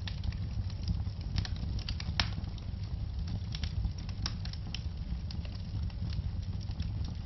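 Wood fire burning in a fireplace: a steady low rumble of flames with irregular sharp crackles and pops, the loudest pop a little over two seconds in.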